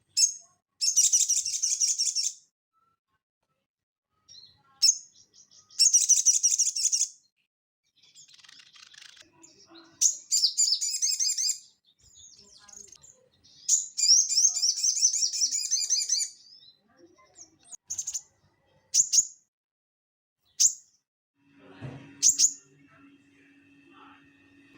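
Sogon songbird singing a fast, buzzy chattering song in repeated trilled phrases of about two seconds each. Short sharp down-slurred call notes follow, with a faint steady hum coming in near the end.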